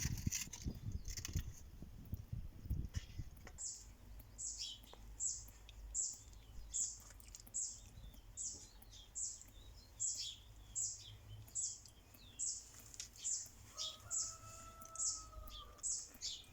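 A small bird chirping over and over in short, high, sharp notes, about two a second, starting a few seconds in. Before that there are a few low thumps and knocks.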